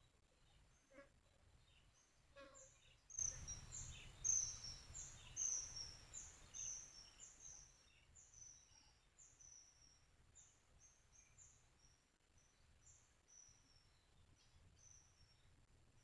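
A bird calling over and over, a series of short high notes that each fall in pitch, about two a second, starting a few seconds in and loudest at first before fading somewhat. A soft hiss comes up with the first of the calls.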